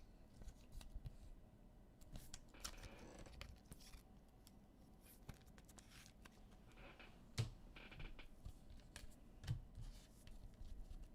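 Faint rustling, scraping and light clicks of trading cards and pack wrappers being handled, with a few brief tearing or scraping sounds spread through.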